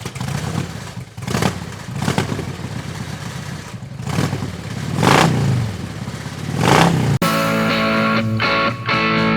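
A motorcycle engine revving up and down several times. About seven seconds in, it cuts off abruptly and guitar music starts.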